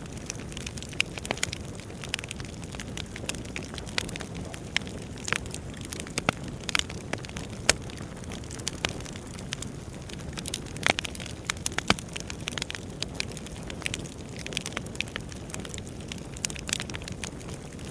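Wood fire burning, with a steady low rumble and irregular sharp crackles and pops.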